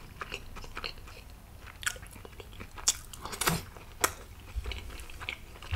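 Close-miked eating sounds: a piece of food dipped in chutney and put in the mouth, then chewed, with scattered wet smacks and clicks of the lips and mouth. The loudest smacks come about three and a half to four seconds in.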